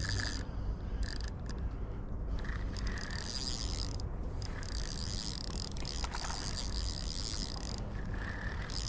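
Small fishing reel being wound in to bring in a hooked fish, its gears whirring in several spells with short pauses. The longest spell runs from about four seconds in to about eight.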